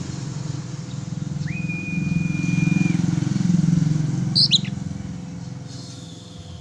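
A vehicle engine passes, its low rumble swelling to a peak about four seconds in and then fading. Over it an oriental magpie-robin gives one long, flat whistled note about a second and a half in, and a short chirp near the four-and-a-half-second mark.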